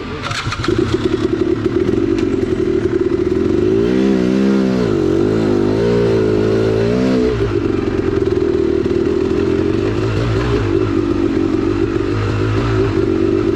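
Two-stroke engine of a KTM 300XC-W dirt bike running steadily at low revs, with the revs rising and falling several times from about four to seven seconds in before settling back.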